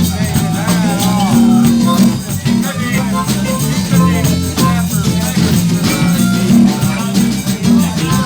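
Live band playing: a bass line under a steady drum beat, with bending melody notes above.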